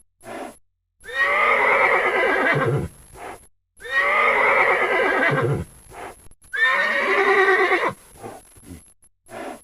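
Horse whinnying three times, each call about two seconds long.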